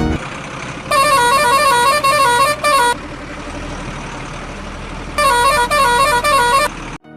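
Truck engine running with a low steady rumble. A melodic multi-tone horn twice plays a short tune that steps up and down: about a second in, and again about five seconds in.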